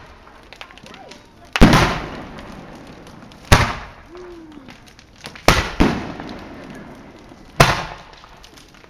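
Fireworks exploding: five loud bangs about two seconds apart, the third and fourth close together, each trailing off in a rolling echo.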